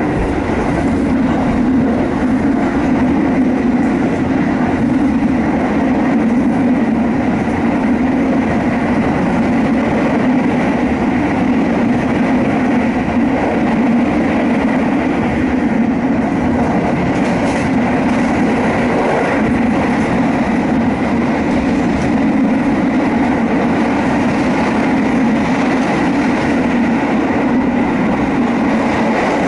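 Passenger train running steadily along the line, heard from inside the carriage: an even rumble of wheels on rails.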